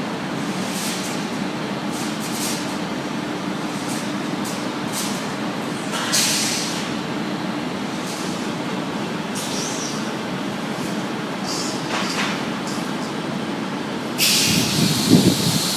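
Factory machinery running steadily with a low hum, with occasional brief clanks and hisses. Near the end a louder burst of hissing starts and keeps on, with a heavy low rumble under it.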